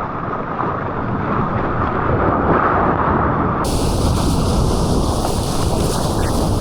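Loud, steady rushing noise with no distinct events. About three and a half seconds in it cuts to a brighter, fuller recording of the same kind of noise.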